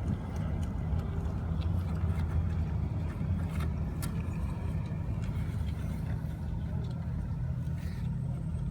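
Car engine idling: a steady low hum, with a few faint clicks about halfway through.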